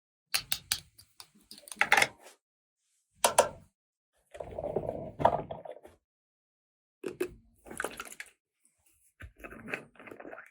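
Plastic toy pieces being handled: bursts of clicks, taps and rustling, broken by short silences about every second or two.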